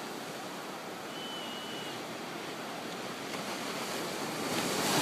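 Steady rushing outdoor background noise, with a brief thin high whistle about a second in, and the noise swelling slightly near the end.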